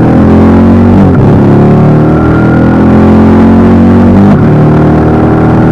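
Motorcycle engine running hard at speed, its pitch dropping and recovering twice, about a second in and again past four seconds.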